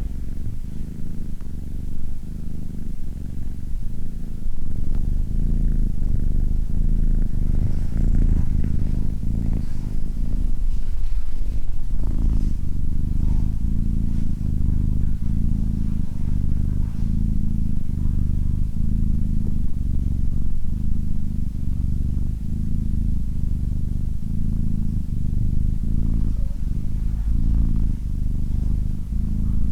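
Domestic cat purring close up: a continuous low rumble that pulses in a regular rhythm.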